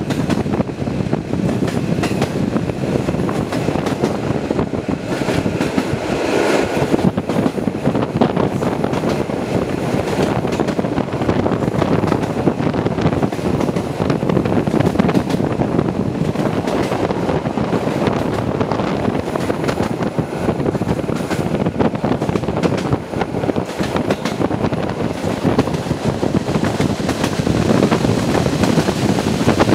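Passenger train coaches running at speed: a steady rumble of wheels on rail, heard through an open window with wind buffeting the microphone. A brief high-pitched tone about six seconds in.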